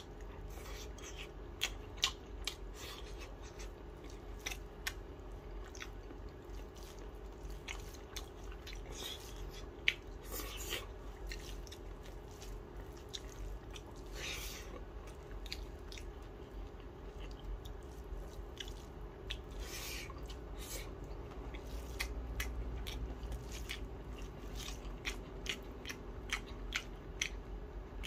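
A person chewing a mouthful of rice and fried chicken sausage eaten by hand, with irregular wet smacks and clicks, over a steady low hum.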